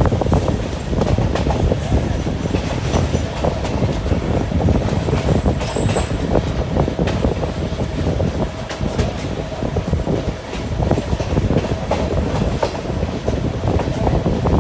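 Train running along the track, its wheels clattering over the rails, with a couple of brief high squeals from the wheels.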